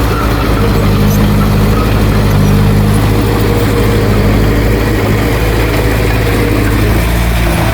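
Heavy earthmoving machinery's diesel engine running steadily, with a second, higher engine note joining about half a second in and dropping away after about five seconds.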